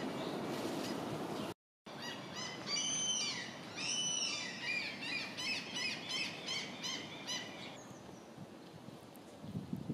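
Birds calling: a run of short, high calls, several a second, with a couple of longer ones about three and four seconds in, dying away near eight seconds. Before them, about a second and a half of steady outdoor noise that cuts off abruptly.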